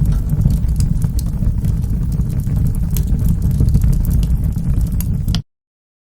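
Wood fire in a fireplace crackling, with scattered sharp pops over a steady low rumble. The sound cuts off suddenly to silence near the end.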